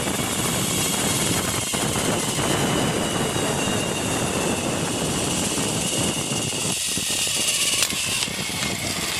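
Zipline trolley pulleys running along the steel cable with a high whine, and wind buffeting the microphone. The whine falls in pitch toward the end as the rider slows, and a sharp knock comes near the end.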